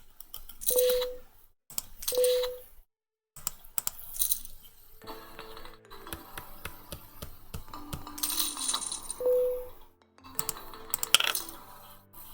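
Online poker client sound effects: chips clinking and rattling, with many quick clicks. Three short swishing bursts, each with a brief tone, come about a second in, at two seconds and near nine seconds.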